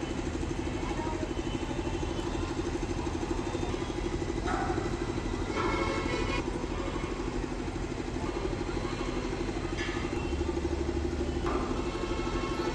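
An engine running steadily with an even, pulsing hum, as from heavy machinery. Several short, higher sounds come over it a few times.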